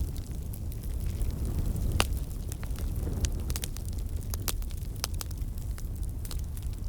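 Fireplace fire crackling: a steady low rumble of flames with frequent sharp pops and snaps, one louder pop about two seconds in.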